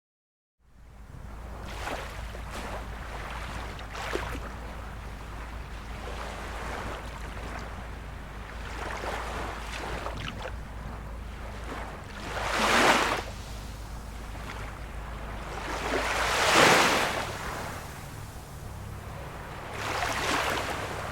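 Gentle sea waves washing onto a shore, a steady wash with three louder breaks, about 13, 17 and 20 seconds in. A steady low rumble runs underneath. The sound starts from a moment of dead silence and fades in.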